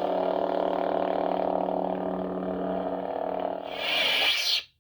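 Lightsaber soundboard playing the "Dark Lord Revisited" sound font through the hilt's speaker: a steady low electric blade hum, then the blade's retraction sound near the end, which cuts off sharply.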